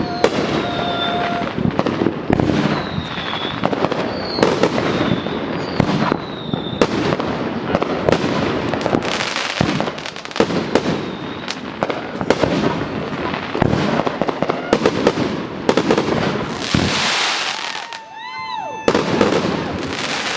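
Consumer fireworks going off in rapid succession: dense crackling and popping bangs. Short falling whistles repeat through the first several seconds, and one whistle rises and falls near the end.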